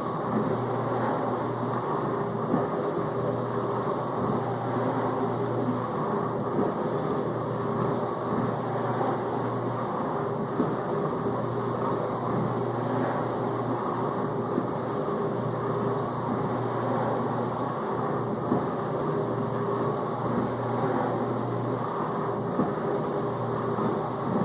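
Whirlpool dishwasher in its main-wash circulation: the pump motor hums steadily while water sprays and churns inside the tub, with brief louder splashes now and then.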